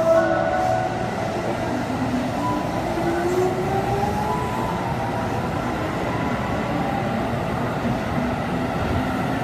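Seibu 2000 series electric train pulling out and running past: steady wheel rumble on the rails, with a whine that rises in pitch over the first few seconds as it gathers speed.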